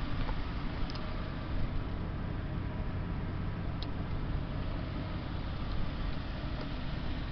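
2006 Ford F-250 Super Duty pickup's engine idling steadily, a low even hum.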